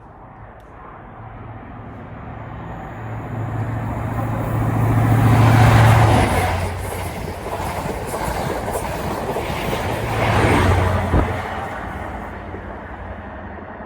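A train passing through the station: the rush of wheels on rail builds to a peak about six seconds in, swells again near eleven seconds, then fades away. A steady low hum runs under it, with a high rail hiss.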